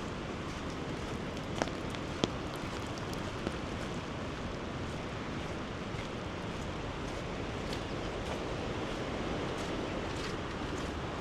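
Steady rush of water, with a few faint taps in the first few seconds.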